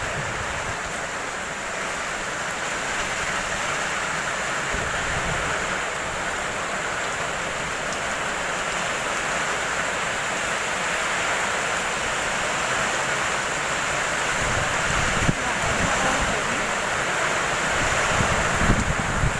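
Heavy rainstorm: a steady downpour with strong wind, gusts buffeting the microphone with a low rumble in the second half, and a sharp knock or two.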